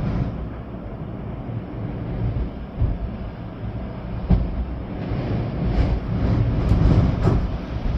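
Storm wind gusting with rain, a heavy low rumble of wind buffeting the microphone that builds in the second half. One sharp hit comes about four seconds in and several shorter ones come near the end.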